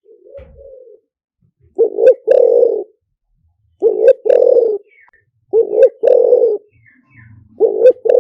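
Spotted dove cooing: a short note followed at once by a longer coo, repeated four times about every two seconds, with a softer coo at the start. It is the male's song, used as a decoy call to lure wild spotted doves into a trap.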